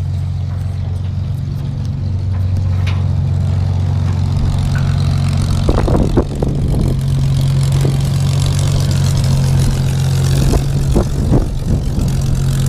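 Propeller aircraft's piston engine running steadily at low power while taxiing in, its pitch stepping up a little about halfway through, with a few brief knocks or short sounds over it.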